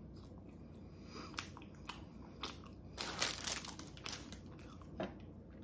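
Close-up chewing of soft Korean red bean bread: small wet mouth clicks and smacks, with a short crackling rustle about three seconds in.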